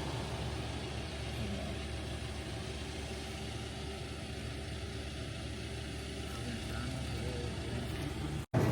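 A vehicle's engine running with a steady low hum, cut off abruptly near the end.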